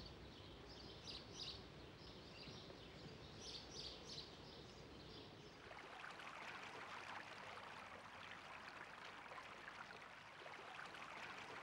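Faint outdoor ambience: a few groups of short bird chirps over a low background rumble, then from about six seconds in a small brook trickling steadily.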